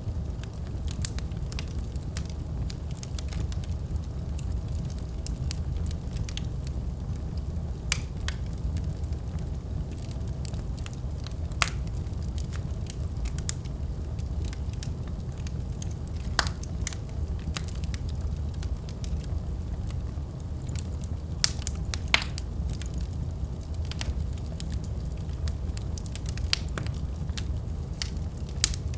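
Wood fire burning in a fireplace: a steady low rumble of flames with scattered crackles and, every few seconds, a sharper pop.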